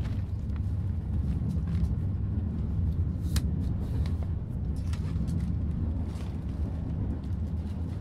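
Passenger train car rolling along the track: a steady low rumble, with scattered light clicks and rattles.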